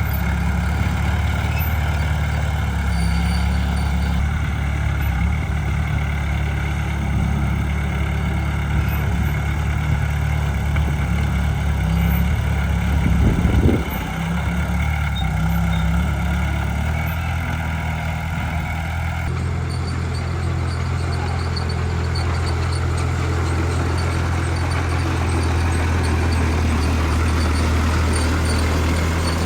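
Heavy diesel engine running steadily at low revs, with a brief louder rush about halfway through.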